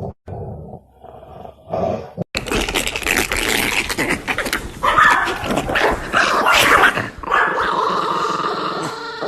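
A dog vocalizing with growl-like sounds. A little over two seconds in, the sound switches abruptly to a louder, noisier stretch.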